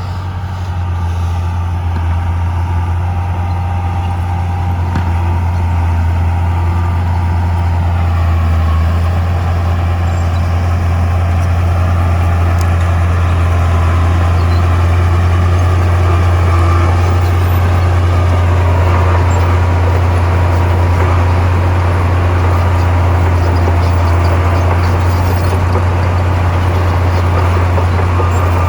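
Heavy diesel engine of earthmoving machinery running steadily with a deep, constant drone, its note shifting a little a few times as the load changes.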